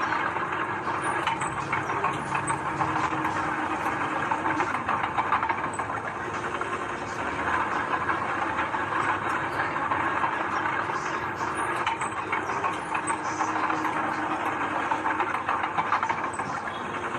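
Heavy earthmoving machinery at work: a diesel engine running steadily under a dense, continuous metallic clatter, typical of a crawler bulldozer's steel tracks.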